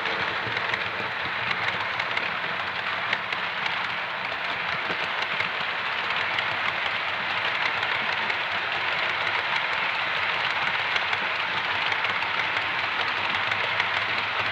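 Model train running along the layout's track: a steady rushing of wheels on rail and motor, with faint clicks.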